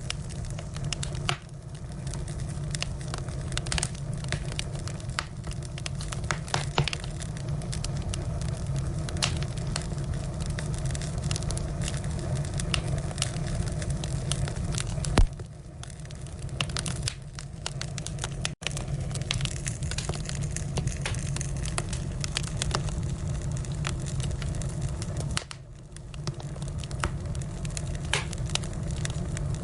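Wood fire burning: firewood crackling and popping in sharp snaps over the steady low rumble of the flames.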